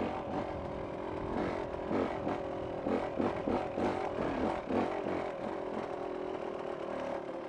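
A vehicle engine running while driving off-road over desert scrub, its revs rising and falling for the first few seconds and then holding steadier.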